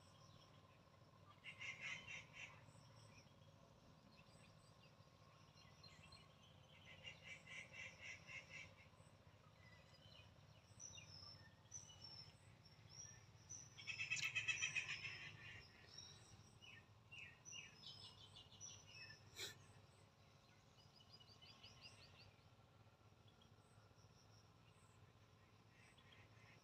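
Faint outdoor bird calls: short chirps and quick trills come in bursts, the loudest about halfway through, over a low steady hum. A single sharp click comes about two-thirds of the way in.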